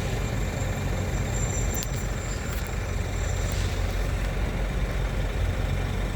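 Diesel truck engine idling with a steady low rumble. A brief high whine and a click come about two seconds in.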